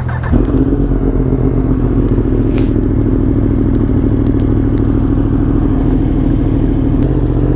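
Yamaha R1 sportbike's inline-four engine running steadily at low revs, getting louder about a third of a second in and holding an even pitch with no revving.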